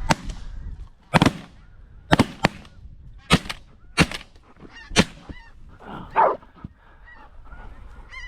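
Shotguns firing: about seven shots in quick, uneven succession over the first five seconds, with goose honks in between and after.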